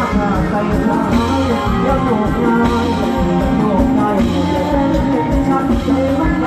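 Loud amplified live band music with a steady beat, bass and guitar, and a voice singing over it.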